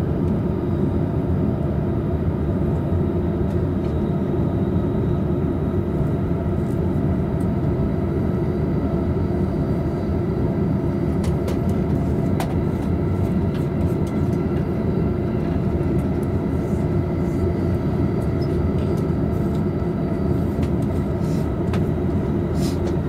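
Steady running noise heard inside a double-decker Green car of a JR Tokaido Line train travelling at speed: a low rumble of wheels on rail with a faint steady hum above it. A few light clicks come about halfway through and again near the end.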